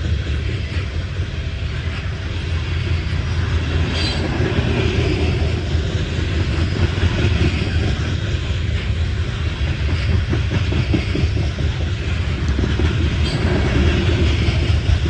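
CSX coal train's cars rolling past, wheels clicking over the rail joints above a steady low rumble.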